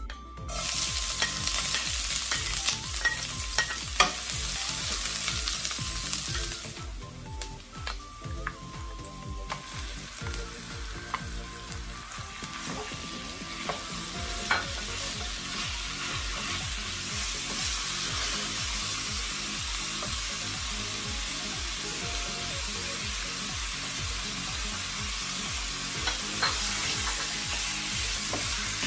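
Sliced onions and ground pork frying in hot oil in a pan, sizzling steadily while a wooden spatula stirs and breaks up the meat, with a few sharp taps against the pan. The sizzle quiets briefly about seven seconds in, then picks up again.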